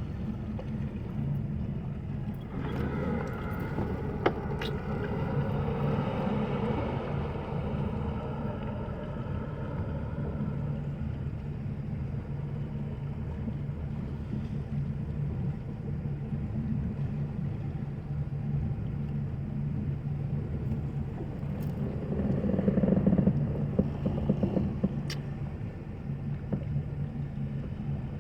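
A boat engine idling steadily, a low rumble that swells a little twice.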